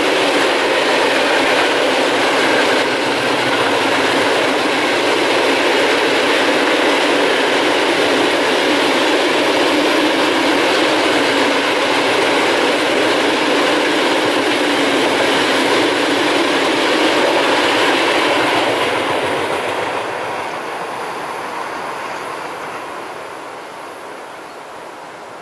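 Freight train of Talbot self-discharging hopper wagons rolling past on a curve, with a steady rumble and rattle of wheels on the rails. The sound fades away from about nineteen seconds in as the last wagons go by.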